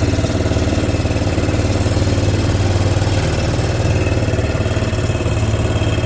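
A vehicle's engine running steadily as it moves slowly.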